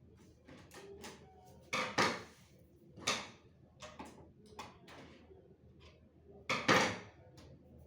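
Sharp clicks and clinks of hard parts and tools being handled during printer repair. There are a dozen or so light knocks, with louder paired clacks about two seconds in and again near the end.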